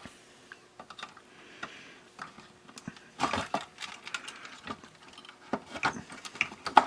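Small clicks, knocks and scrapes of hands working a part into a small radio-cassette player's plastic casing, with a busier patch of rattling about three seconds in and a sharp knock near the end.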